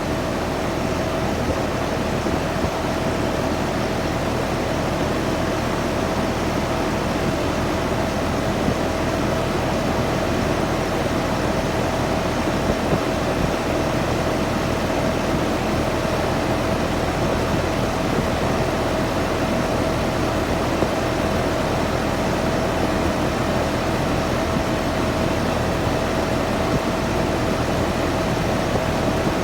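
Early 10-ton Nordyne air conditioner running: a steady rush of air with one constant hum tone, unchanging throughout.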